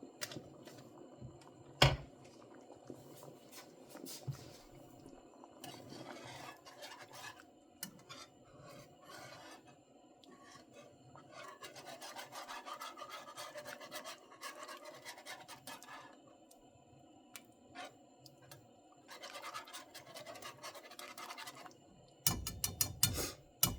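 Kitchen utensils and dishes being handled: intermittent scraping and rubbing, with a sharp knock about two seconds in and a burst of clattering near the end.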